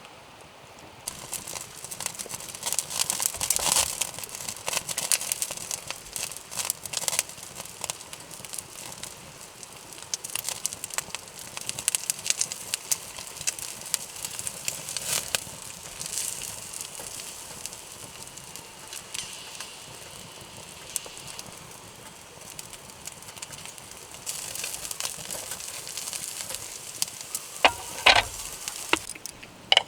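Wood campfire crackling and popping with dense irregular snaps over a soft hiss, starting about a second in. There are a few louder knocks near the end.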